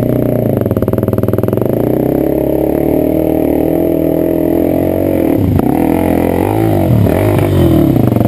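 Enduro motorcycle engine running under load while the stuck bike is pushed and pulled out of a stream crossing. The engine note holds steady at first, then dips and rises several times over the last few seconds as the throttle is worked.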